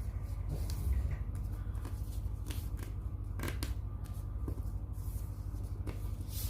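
A sheet of paper being handled and folded by hand, with scattered short crinkles and rustles as it is creased. A steady low hum runs underneath.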